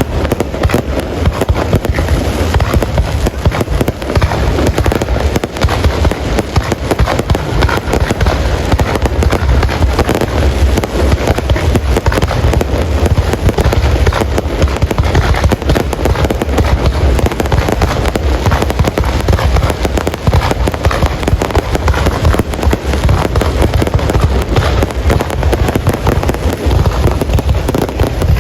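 Fireworks display: a dense, unbroken barrage of booms and crackling bursts, going on without a pause.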